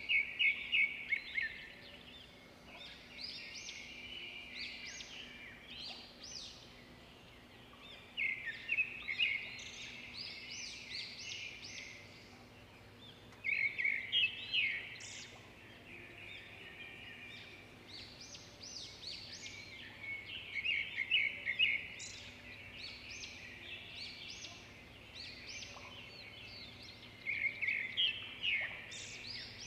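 Small birds chirping in bursts of quick, repeated high notes every few seconds, over a faint steady hum.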